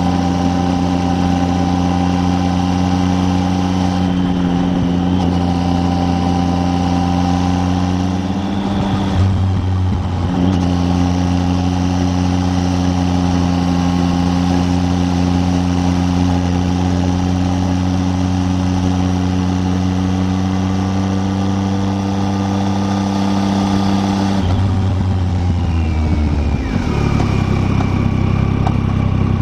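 Triumph Tiger 800's three-cylinder engine running at a steady note, with a brief break about nine seconds in; near the end the engine note falls as the bike slows.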